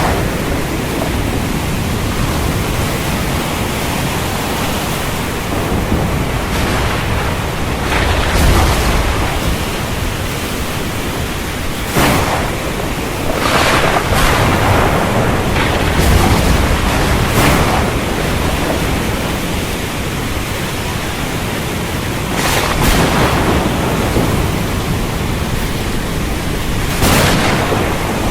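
Storm over the sea: a loud, steady rush of wind and surf, swelling in surges every few seconds.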